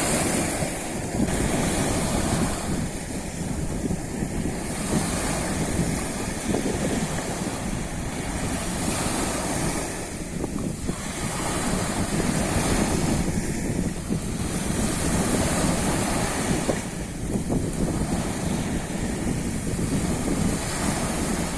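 Sea waves washing onto the shore, swelling and falling back every few seconds, with wind rumbling on the microphone.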